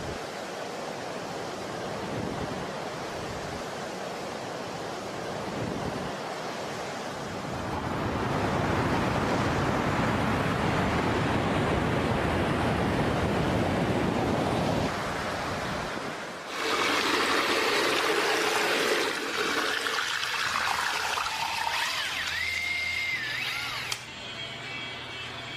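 Ocean surf washing onto a beach: a steady rush that grows louder about eight seconds in, under soft background music. About two-thirds of the way through it cuts abruptly to a different, brighter mix with a brief wavering tone, then to a low steady hum near the end.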